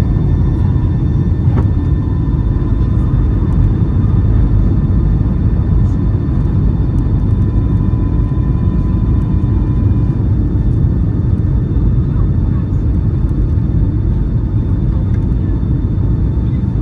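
Steady low roar of a Boeing 757-200's engines and airflow heard from inside the passenger cabin, with a faint high whine running over it.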